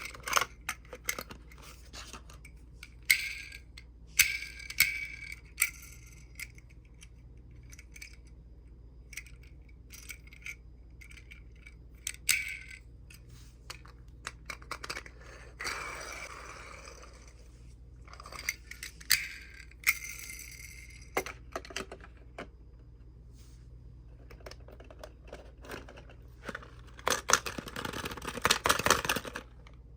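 Die-cast Tomica minicars and their packaging being handled: scattered small metallic clicks and taps, with a stretch of rustling or scraping around the middle and a busy run of clicks and rustling near the end.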